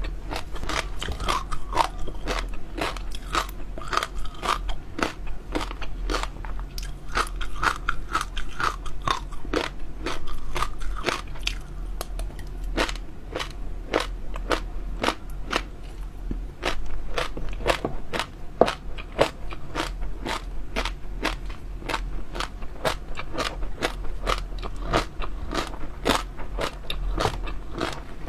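Close-up eating sounds: rapid, crisp crunching and chewing of jelly pearls, several bites a second.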